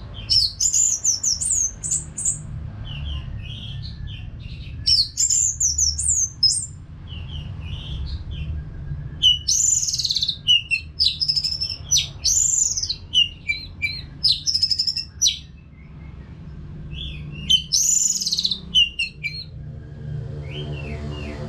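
Orange-headed thrush singing: about six loud phrases of quick, varied whistled notes, each a second or two long, with short pauses between them. A steady low hum runs underneath.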